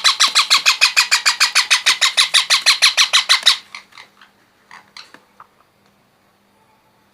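Baby parrot chick giving rapid, loud food-begging calls, about nine a second, while being fed. The calls break off about three and a half seconds in, followed by a few scattered calls.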